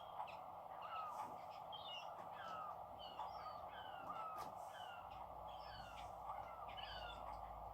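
Recorded harbour soundscape played through a small Bluetooth speaker: gulls calling over and over in short falling cries over a steady background hiss, with a low rumble coming in about five seconds in.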